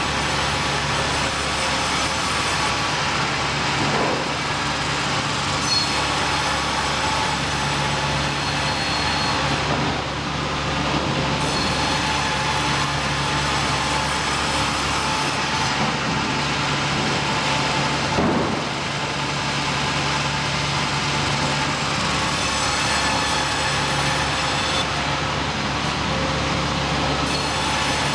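Sawmill machinery running steadily: a continuous mechanical din with a constant low hum underneath.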